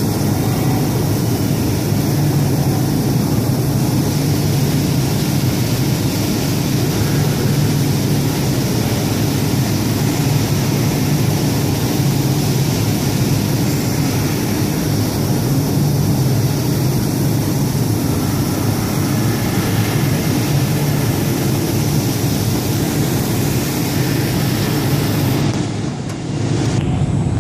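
Baykal BLSN 3000 W fiber laser cutting machine running while cutting 10 mm thick plate: a loud, steady hiss over a low hum. It dips briefly near the end.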